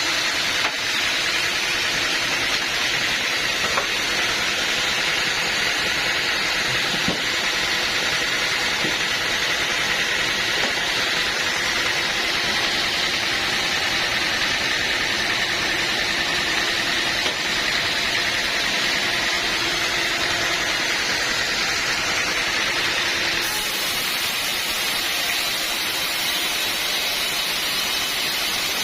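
Sawmill machinery running steadily, a constant hissing noise with a faint high tone that eases slightly near the end.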